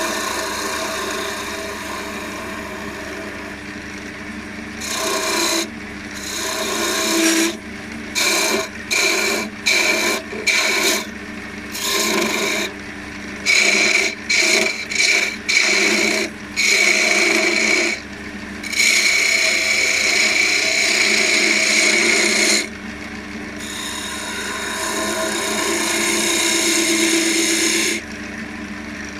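Wood lathe running steadily while a spindle gouge cuts a spinning elm spindle: a quick series of short cuts, then a few longer, sustained passes.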